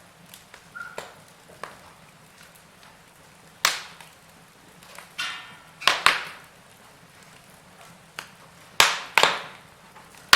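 Wood fire in a fireplace crackling, with sharp pops and snaps at irregular intervals, several of them loud, and a brief hiss about five seconds in.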